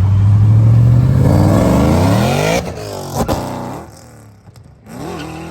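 A car engine accelerating hard at full throttle, its pitch climbing steadily for about two and a half seconds before it drops off sharply. A short crack follows, and the sound fades away.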